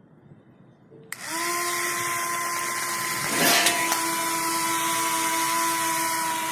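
Small DC electric motors of a homemade plastic-bottle toy jet switched on about a second in, spinning up quickly to a loud steady high whine. A brief louder rush of noise cuts across it about midway.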